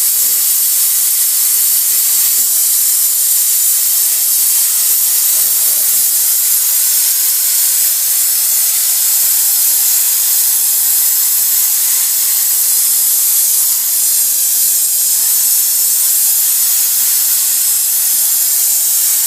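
STEMAR bed-bug steamer jetting hot steam from its nozzle without a break: a loud, steady, high hiss.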